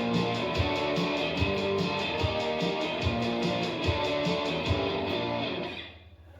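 Live indie rock playing the end of a song: strummed electric guitar chords over a steady low drum beat, stopping near the end.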